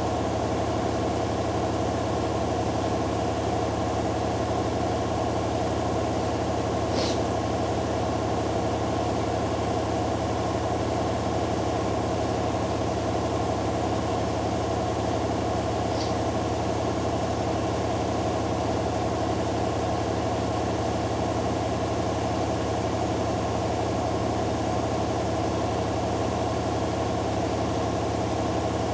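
Hoover Dynamic Next DXA610IW3 front-loading washing machine spinning at a steady speed during its spin cycle, a constant motor and drum hum that neither rises nor falls. Two faint brief ticks come about a quarter and about halfway through.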